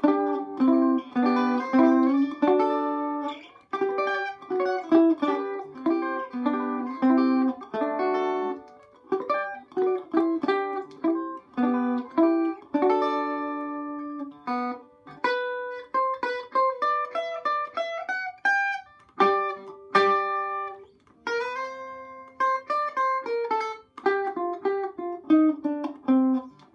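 Circa 1936–37 Vega electric banjo picking a short tune in single notes with chords worked in. The plucked notes ring on, broken by a few brief pauses about halfway and two-thirds of the way through.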